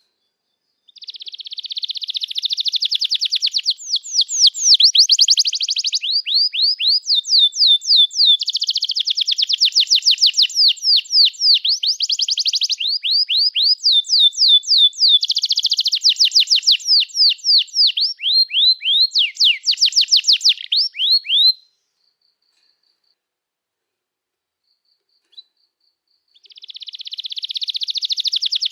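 Domestic canary singing a long song of rapid trills, each a fast run of repeated high notes that switches to a new run every second or two. The song stops about two-thirds of the way in, and after a pause with one brief note it starts again near the end.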